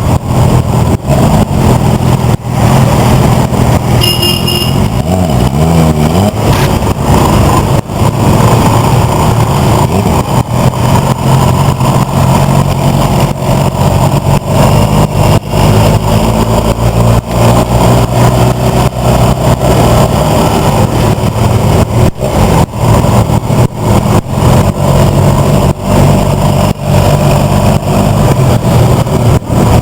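Motorcycle engines running at close range, loud and distorted, with a brief high-pitched tone about four seconds in.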